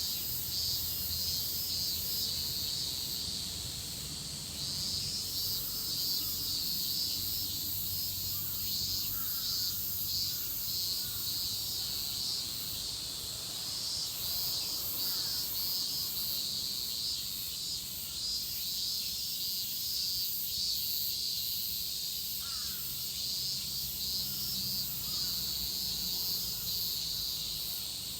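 A chorus of cicadas buzzing steadily, with a fast, pulsing shimmer, over a low, distant rumble.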